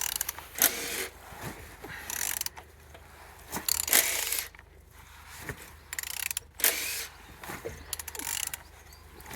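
Opel/Vauxhall Z12XEP 1.2-litre four-cylinder petrol engine being turned over by hand, a series of mechanical clicking, rasping strokes about once a second as the crank is worked round. The engine turns freely, showing it is not seized.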